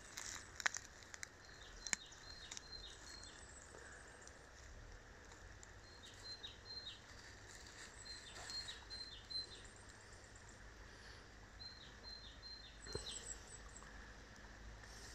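A small songbird repeating a short phrase of quick high chirping notes, four times a few seconds apart, over quiet woodland background, with a few faint clicks from the dry leaves.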